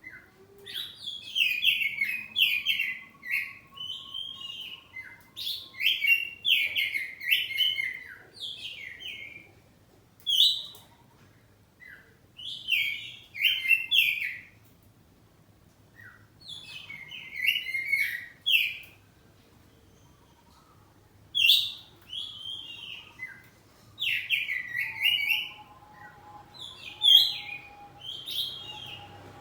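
Oriental magpie-robin (kacer poci) singing loud, varied phrases of a second or two each, separated by short pauses.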